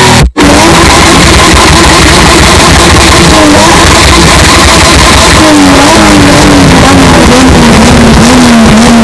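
SUV engine running at high revs, amplified until it is harsh and distorted. A brief dropout comes just after the start, and over the second half the engine's pitch sags slowly as the revs fall.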